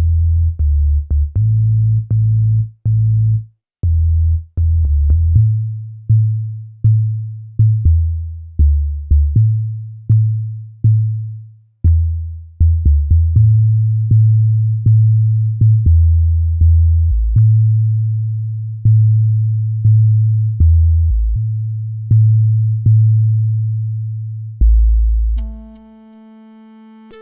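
FL Studio Mobile synthesizer preset playing a line of deep bass notes, each struck sharply and fading away. Near the end it switches to a quieter, held tone with many overtones, a different preset.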